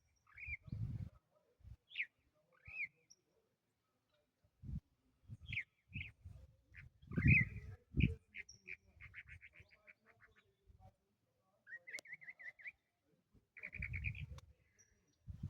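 A small bird chirping in short, separate notes, twice breaking into a quick trill of rapidly repeated notes, over intermittent low thumps.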